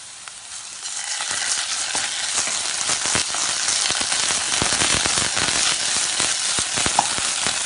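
Chopped onions and ginger garlic paste sizzling in oil in a pan while a spatula stirs them, with many small scrapes and crackles. The sizzle swells about a second in and then stays steady.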